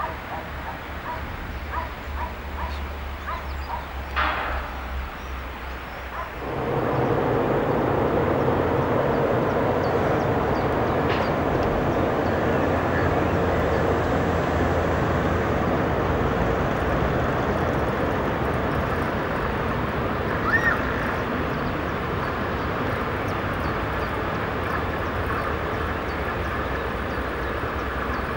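A dog yaps a few times. Then, about six seconds in, a passing train comes in suddenly: a steady, loud rumble and rush of wheels on rail that keeps on as the train goes by.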